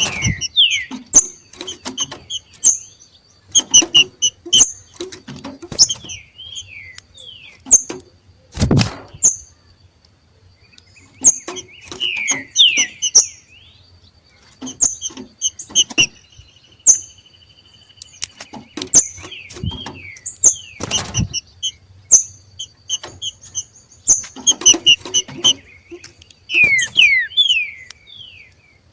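Green-winged saltators (trinca-ferro) giving their 'macheado' call: bouts of short, high chirps and quick sweeping whistled notes, the call these birds make as they come into breeding condition. Two dull thumps break in, one about a third of the way through and one about two-thirds.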